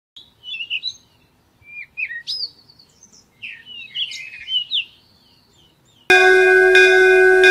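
Small birds chirping and twittering in quick, sliding high calls. About six seconds in, the birdsong stops and music with held tones starts abruptly.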